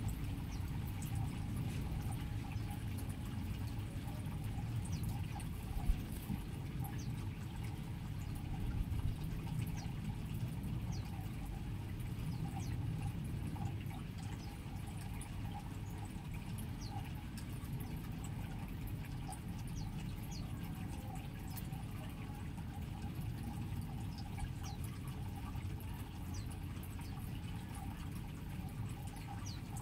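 A steady low rushing, water-like noise, with faint, very short high chirps of small aviary birds scattered throughout.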